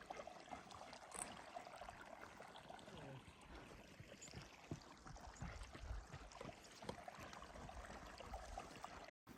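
Near silence: faint, steady rushing of running water, with some low rumble and a brief total dropout near the end.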